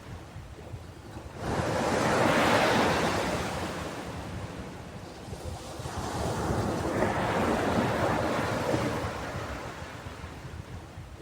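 Ocean waves washing onto a beach: one surge swells up about a second and a half in and fades away, and a second, softer surge builds and recedes in the middle.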